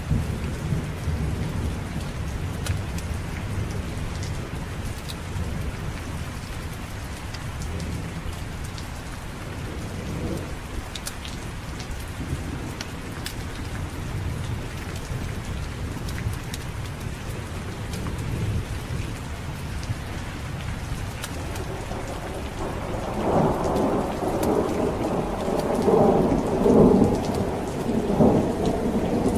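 Steady rain with low rolling thunder, and a louder roll of thunder building about three-quarters of the way through.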